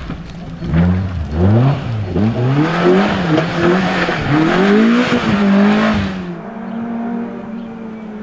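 Rally car engine revving hard, its pitch climbing and dropping again and again through the gears and lifts as it drives the stage. About six seconds in the sound dulls suddenly to a quieter, steadier engine note.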